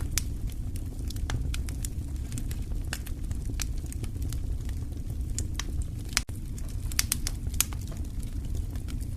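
Wood fire crackling, with frequent irregular sharp pops over a steady low rumble of the burning logs. The sound drops out for an instant about six seconds in.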